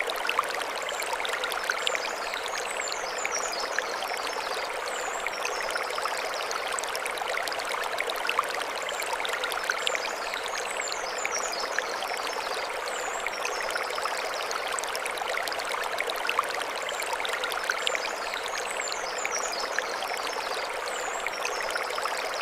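Mountain stream flowing over stones, a steady rush of water. A short high twittering call repeats three times, about eight seconds apart.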